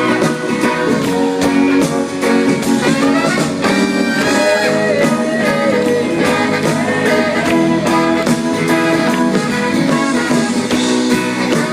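Live band playing an instrumental passage with a lead guitar line, recorded from the audience.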